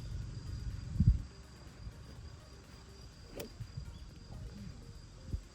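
Wind buffeting the microphone, with a low thump about a second in, then a single sharp click of a golf club striking the ball about three and a half seconds in. A faint steady high insect drone runs underneath.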